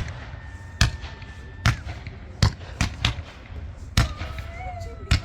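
Low-noise consumer fireworks going off: a series of sharp pops and thuds, about eight in five seconds and irregularly spaced.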